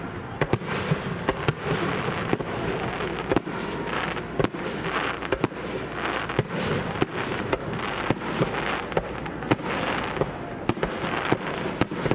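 Aerial firework shells bursting in quick, irregular succession, about two sharp bangs a second, over a continuous crackle.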